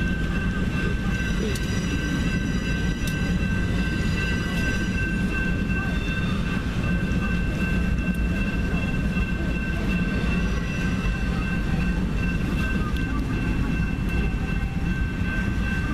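Double-stack container cars rolling steadily past a grade crossing: a heavy rumble of steel wheels on rail, with a steady high-pitched squeal over it and a few sharp clanks in the first few seconds.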